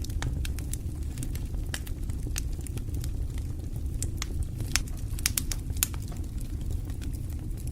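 Wood fire burning in a fireplace: a steady low rumble under irregular sharp crackles and pops, a few louder pops a little past the middle.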